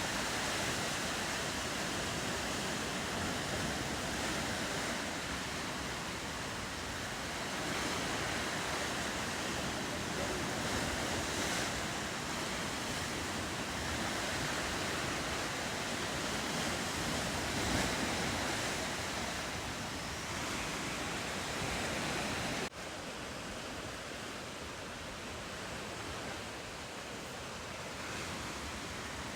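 Ocean surf washing steadily along the shore, an even rushing noise with some wind. About three quarters of the way through it drops abruptly to a slightly quieter stretch of the same surf.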